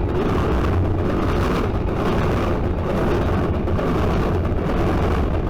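Freight train cars rolling past: a steady, loud low rumble with irregular clatter, without a break.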